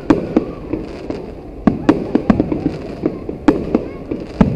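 Aerial fireworks shells bursting in an irregular string of sharp bangs over a steady background noise, with a quick cluster of bangs in the middle and another loud one near the end.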